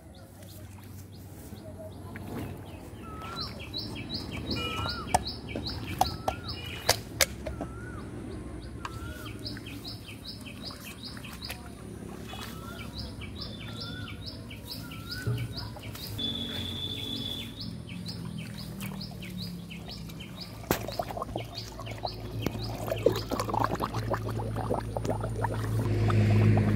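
Birds chirping in rapid repeated runs of short high notes, with a short wavy call repeated every second or so. Near the end, water splashing and sloshing as hands work in shallow pond water.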